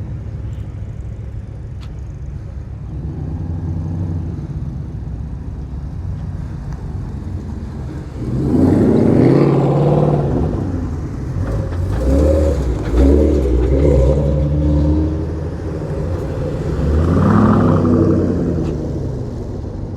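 Car engines driving past one after another, rising and falling as each goes by, some rising in pitch as they speed up. The loudest passes come about halfway through, again a little later, and once more near the end.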